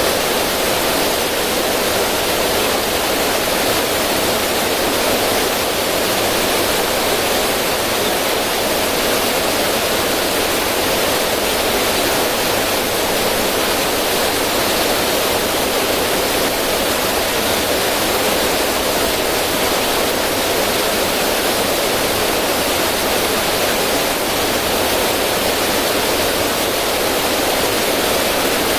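River water running steadily over rocks in a small cascade, a continuous even rush of flowing and splashing water.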